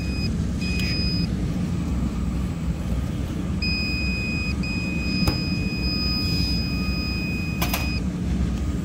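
An inspection instrument being calibrated with a probe on a reference standard gives a high, steady beep in several stretches: two short ones, then a long one of about three and a half seconds from about halfway in. A steady low rumble runs underneath, and there are a couple of faint clicks.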